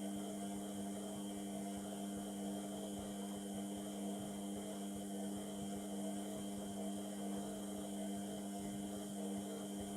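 Indesit MTWC71252WUK washing machine running mid-cycle with a steady hum.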